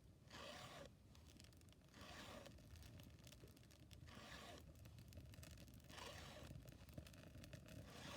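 Faint, evenly paced rasping strokes of a file across chainsaw chain cutters during sharpening, about one stroke every two seconds.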